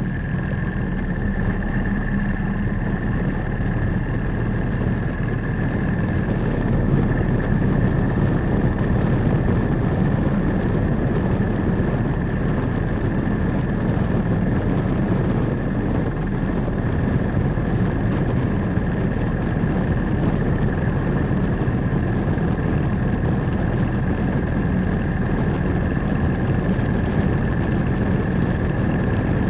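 Motorcycle running steadily at speed, a dense low rumble with a thin, steady high whine over it.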